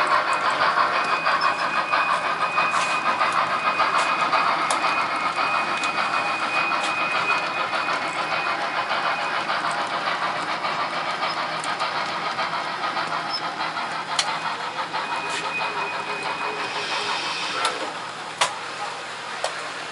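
Model railroad locomotive running on the layout while switching cars: a steady mechanical running noise with a thin whine that comes and goes, and a few sharp clicks near the end.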